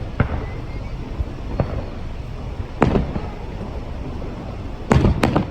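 Fireworks shells bursting, about five sharp bangs with the loudest two close together near the end, over a steady low rumble.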